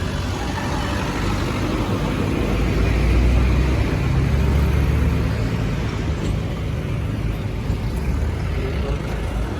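City street traffic: a motor vehicle passes close by, its low rumble building to a peak about three to five seconds in and then easing back into the general traffic noise.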